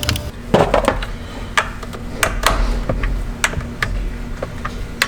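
Hand tools and hardware clicking and clinking against metal while a battery ground cable is fastened to the secondary battery. The clicks are sharp and irregular, about a dozen in all, over a faint steady hum.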